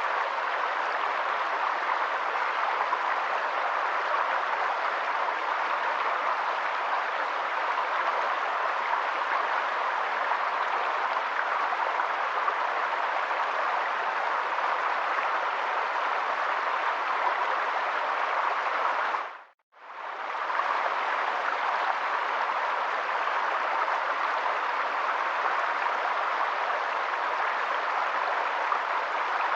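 Steady rushing of flowing water from a stream. It fades out briefly about two-thirds of the way through and comes back at the same level.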